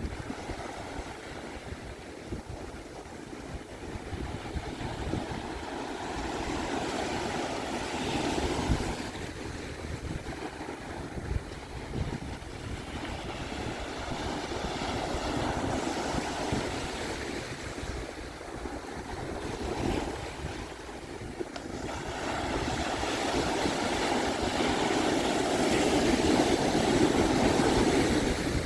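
Pacific Ocean surf breaking and washing up on a sandy beach, with wind buffeting the microphone. The surf grows louder twice, about a third of the way in and again near the end.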